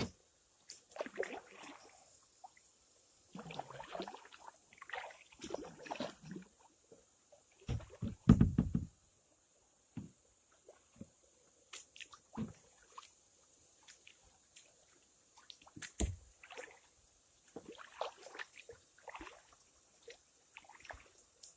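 Kayak paddle strokes dipping and splashing in the water at an uneven pace, with a loud low thump about eight seconds in and a sharp knock a little after the middle.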